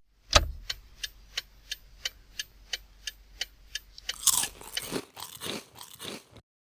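Crunchy biting and chewing sound effect. Sharp, evenly spaced crunches come about three a second, then a few louder, rougher crunches follow before it stops.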